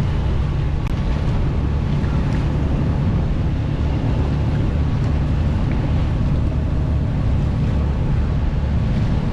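A sailboat's auxiliary engine running steadily under way as a low, even drone, with wind on the microphone and water noise over it.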